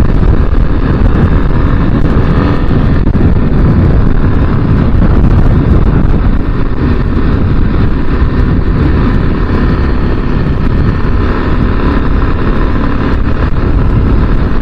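Kawasaki KLX300 single-cylinder engine running at a steady pace on the move, mixed with heavy wind buffeting on the microphone and tyre noise from a loose gravel road.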